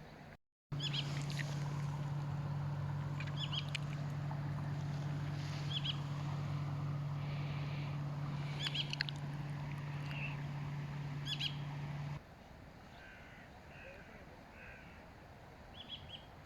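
Birds chirping and calling over a steady low hum, which stops abruptly about twelve seconds in; softer calls go on after it.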